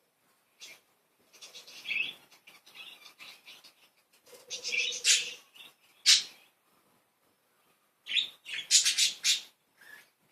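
Pet budgerigars chattering and chirping in several short bursts, the loudest about five, six and nine seconds in.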